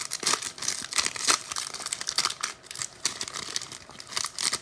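A foil trading-card pack wrapper being torn open and crinkled by hand, a run of close crackling rustles.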